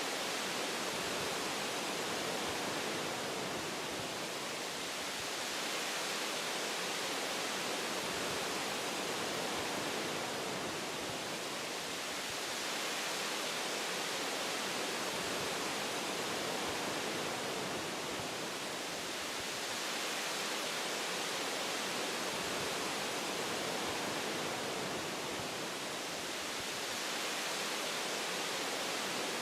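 Wind rushing through forest tree branches: a steady hiss-like rush that eases slightly and swells again every several seconds.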